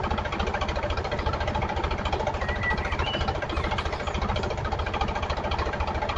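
Diesel tractor engine running steadily with a fast, even knocking chug.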